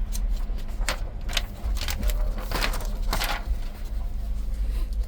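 Paper chart pages rustling and being handled in short, irregular bursts over a steady low rumble.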